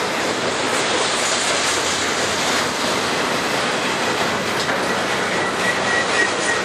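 Double-stack intermodal well cars of a freight train rolling past at close range, a steady rumble of steel wheels on rail. A thin, high wheel squeal comes up about five seconds in.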